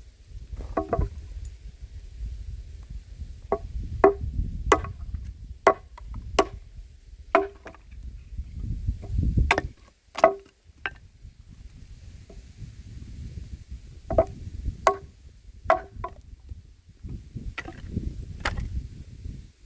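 A handmade axe chopping wood: a series of sharp, ringing strikes, roughly one every half second to a second, with a pause of a few seconds midway. A low rumble runs under the strikes.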